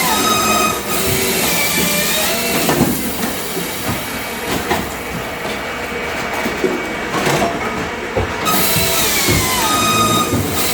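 Firewood processing machinery running under load while cutting and splitting oak logs: a steady mechanical clatter with whining tones that slide up and down, and a hiss that drops out around the middle and returns near the end.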